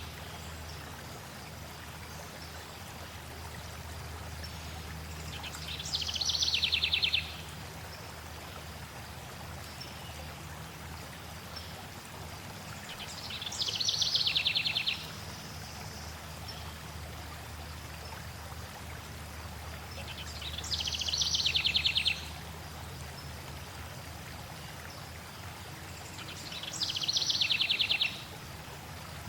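A bird repeats a fast trill four times, about every seven seconds, each lasting about a second and a half, growing louder and then stopping abruptly. Underneath runs the steady rush of a flowing stream.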